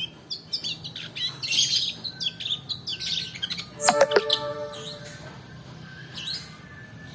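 Long-tailed shrike (pentet) song: a rapid jumble of quick chirps and gliding notes, with a loud, harsh call about four seconds in, after which the notes thin out.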